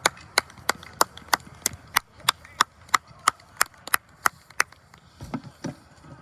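A quick, even run of sharp claps, about three a second, roughly fifteen in all, that stops about four and a half seconds in; two duller thuds follow near the end.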